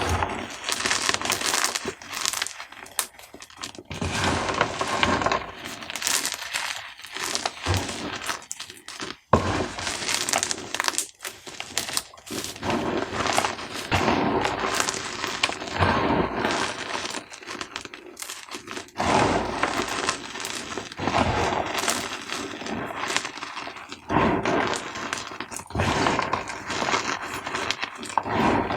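Dyed gym chalk cubes crunching and crumbling as they are crushed, dense crisp crackles in clusters with short pauses between.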